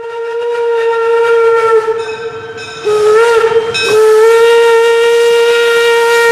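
Steam whistle of a two-foot narrow-gauge steam locomotive blowing one long, loud note that wavers and dips briefly about three seconds in, then holds steady.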